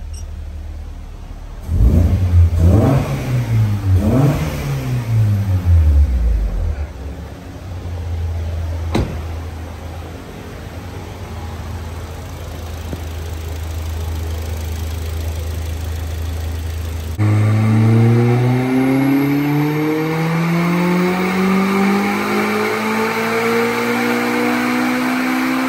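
Honda FD2's VTEC four-cylinder engine, running on a MaxxECU Mini, blipped up and down three times and then settling to a steady idle. About two-thirds of the way through it comes in louder, and its revs climb slowly and evenly until the end, as in a pull under load on a dyno.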